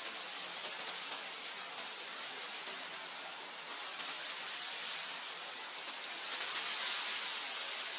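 Wind blowing with a steady hiss, swelling in a gust near the end.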